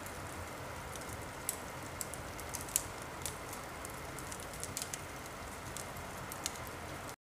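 Wood fire crackling in a fireplace: a steady hiss with scattered sharp pops, cutting off suddenly near the end.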